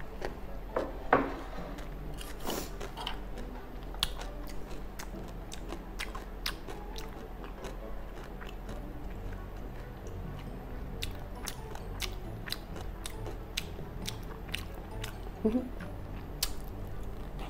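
A person chewing gopchang fried rice close to the microphone: soft mouth clicks and smacks at an irregular pace.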